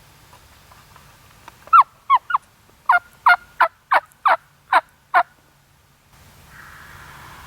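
A run of turkey yelps: about ten loud, short calls, each sliding down in pitch, spaced about three a second, starting about two seconds in and stopping a little past halfway.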